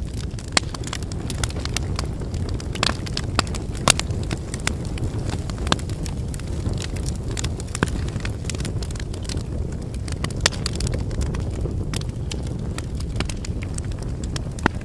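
Wood campfire burning: a steady low rumble of flame with irregular sharp crackles and pops from the burning firewood, several of them louder snaps.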